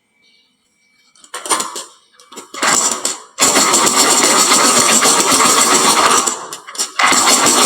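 Marbles rolling and clattering down a wooden marble-run slope: a few short spurts of rattling about a second in, then a dense, continuous loud rattle of many marbles from about three seconds in. It breaks off briefly near the end and starts again.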